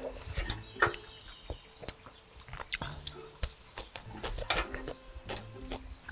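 Close-miked eating sounds: chewing a mouthful of spicy ramyun noodles, with small wet mouth clicks and light taps of a wooden spoon in a ceramic dish.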